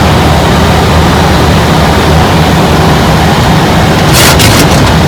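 Steady low drone of a jet airliner's engines and airflow heard inside the cockpit, with a short hissing burst about four seconds in.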